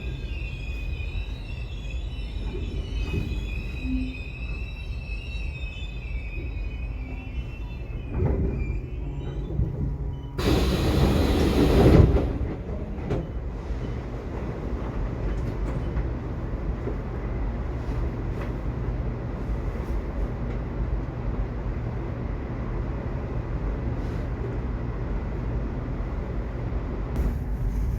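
Subway train running with a steady low rumble. High wheel squeal rings over it for the first several seconds and fades, and a loud rush of noise lasts about a second and a half near the middle.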